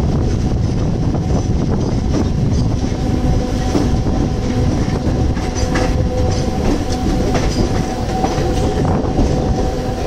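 Mumbai suburban electric local train running along the track, heard from its open doorway: a steady rumble of wheels on rail with a few clicks over the rail joints and a faint steady whine.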